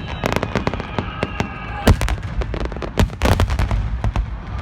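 Fireworks bursting in rapid succession, many sharp cracks and bangs, with the loudest reports about two seconds in and again around three seconds in.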